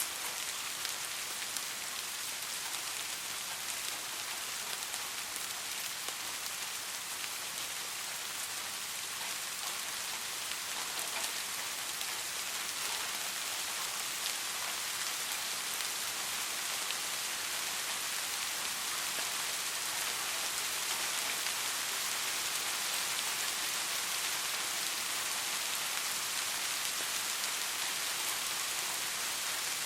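Steady soft rain: an even hiss of rainfall with many fine drop ticks, and no thunder.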